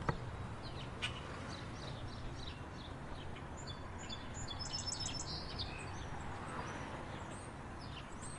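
Small birds chirping over a steady background hiss, with a quick trill of five rapid high notes about halfway through.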